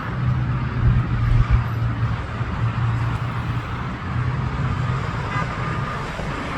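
Steady low engine rumble under a wash of noise, with low buffeting thumps about a second in.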